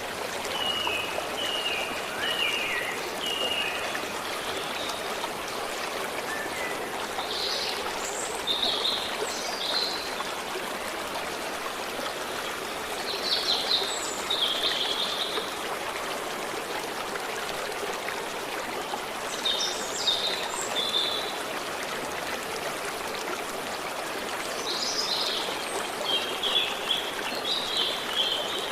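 Stream of water flowing steadily, with songbirds singing short phrases about every five or six seconds over it.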